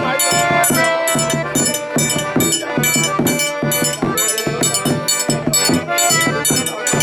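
Live forró pé-de-serra music: held melody notes over a steady, even percussion beat.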